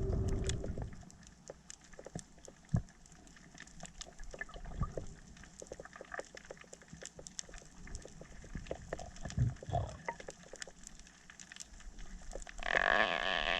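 Underwater ambience full of scattered sharp clicks and crackles, with a few dull thumps. Near the end a steady hiss sets in.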